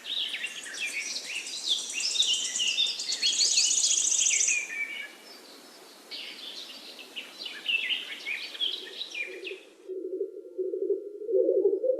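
Several songbirds singing over a steady hiss of outdoor ambience, with a fast high trill about three to four seconds in. The birdsong cuts off abruptly about ten seconds in, and a low pulsing musical tone takes over.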